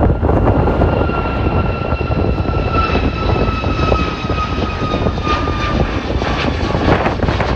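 Boeing 737 MAX 8 jet airliner's CFM LEAP-1B turbofans at takeoff power: a loud, steady low rumble with a jet whine that slowly falls in pitch.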